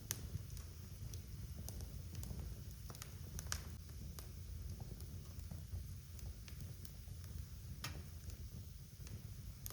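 Wood fire in a fireplace crackling, with a steady low rumble of burning and scattered sharp pops and snaps from the logs. The loudest pops come just after the start, about three and a half seconds in and about eight seconds in.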